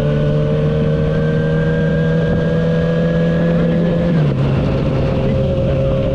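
2009 Kawasaki ZX-6R's inline-four engine running steadily under way, its pitch creeping up slightly, then dropping suddenly about four seconds in and holding steady again.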